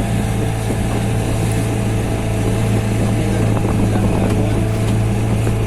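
Motorboat engine running at a steady speed, a constant low drone with even noise over it.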